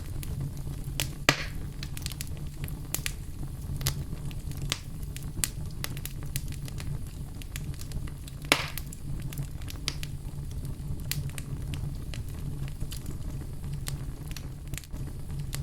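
Wood fire in a fireplace crackling: frequent sharp snaps over a steady low rumble, with two louder pops, one about a second in and one about halfway through.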